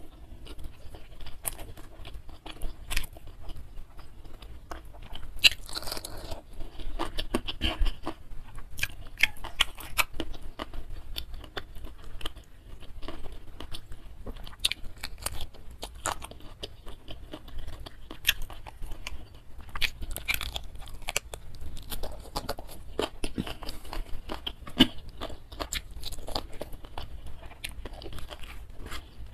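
A person chewing and crunching food close to the microphone, with many short, sharp, irregular crunches and wet mouth clicks throughout. The food is fried catfish with sambal and raw green chili, eaten by hand.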